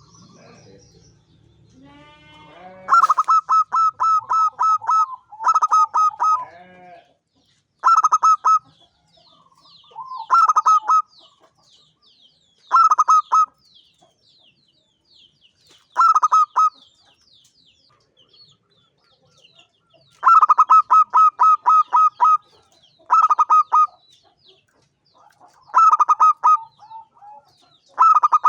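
Zebra dove (perkutut) singing: about ten phrases of rapid staccato coos, separated by pauses of a second or two. Faint, thin high chirps of another small bird run between the phrases.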